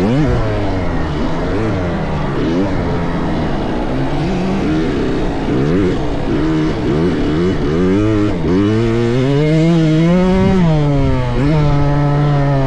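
Several motocross dirt bikes riding a track, their engines revving up and down as they shift and brake, several at once. Late on, one engine climbs steadily, holds high, then drops back.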